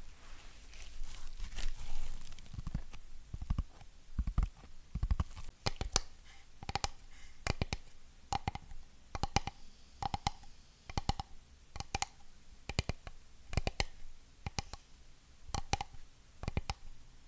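Fingernails scratching and knocking on a hard surface for the first few seconds, then tapping in steady quick pairs, a pair a little under once a second, several of the taps leaving a short ringing note.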